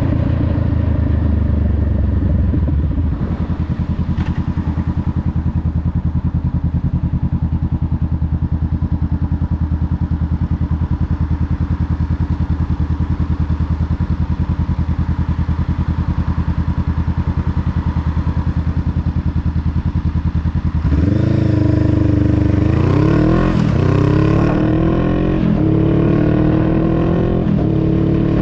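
Honda Rebel 500's 471 cc parallel-twin engine running steadily at low revs for most of the time. About three quarters of the way through, the revs climb in several rising sweeps, each dropping back before the next, as the bike accelerates up through the gears.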